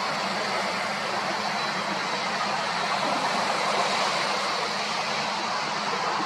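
Airbus A340-600's four Rolls-Royce Trent 500 turbofan engines running at takeoff power: a steady jet rush with a faint high whine.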